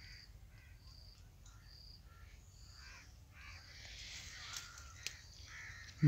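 Faint bird calls: a short high note repeated about once a second in the first half, with other lower calls scattered through, and two faint clicks near the end.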